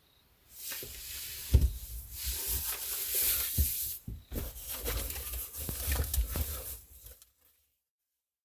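Crinkling and rustling handling noise with several sharp knocks, breaking off briefly in the middle and cutting off suddenly near the end.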